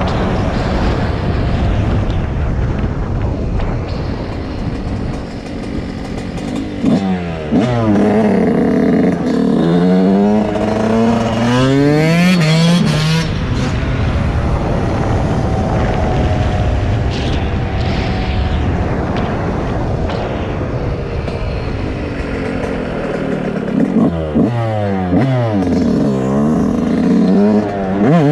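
Dirt bike engine running, with two spells of hard revving through the gears. In each spell the pitch climbs and drops in repeated sweeps.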